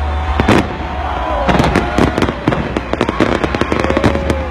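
Aerial fireworks bursting in a rapid, irregular string of sharp bangs and cracks over a steady low rumble.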